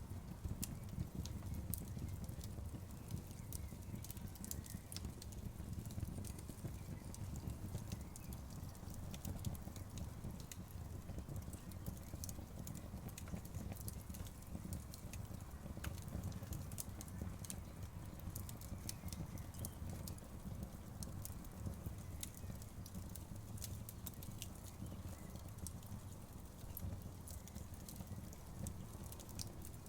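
Campfire crackling and popping, many sharp irregular snaps over a steady low rush of flowing river water.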